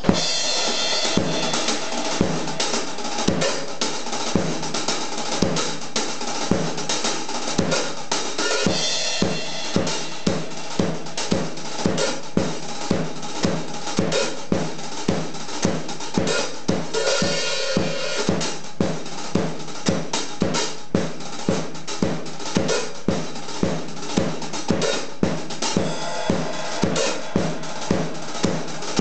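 Drum kit played in a steady rock groove: kick and snare strikes about two a second with hi-hat, and cymbal crashes washing over the beat about a third and about two thirds of the way in.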